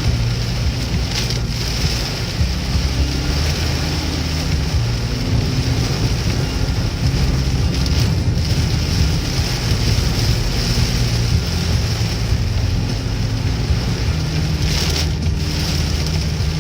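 Heavy rain falling as a steady, even rush, with a low hum underneath.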